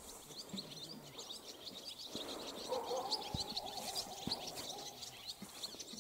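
Many small songbirds chirping, with short high chirps overlapping one another throughout.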